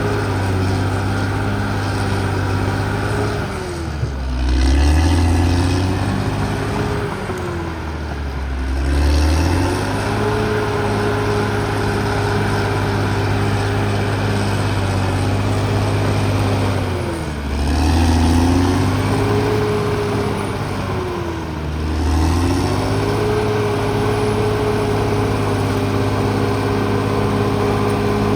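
Caterpillar D6R XL bulldozer's diesel engine running steadily. Four times its speed drops and then climbs back, the engine getting louder each time it drops, about 4, 8, 17 and 21 seconds in.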